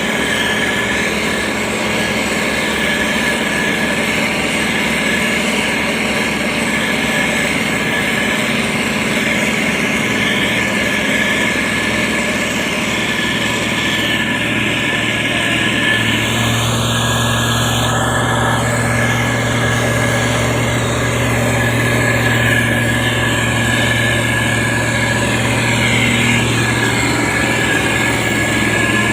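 Diesel engine of a heavy road-construction machine running steadily. About halfway through, a deeper engine note comes in stronger and holds.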